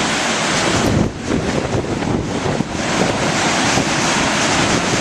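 Strong wind buffeting the microphone over the rush of storm waves breaking on the Lake Michigan shore, loud and steady, easing for a moment about a second in.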